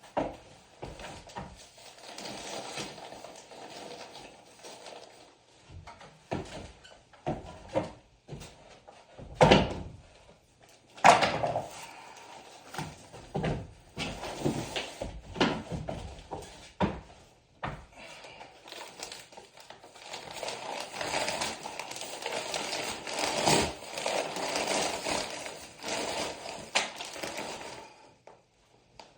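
Hand renovation work on an old house wall: scattered knocks and bumps, two loud thumps about nine and eleven seconds in, then a long stretch of rustling and scraping.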